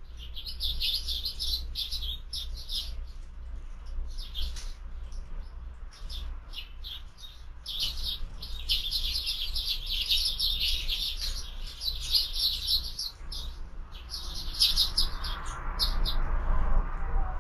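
Several sparrows chirping busily, in quick clusters of short high chirps with brief lulls, over a steady low hum. A louder hiss-like noise builds in over the last few seconds.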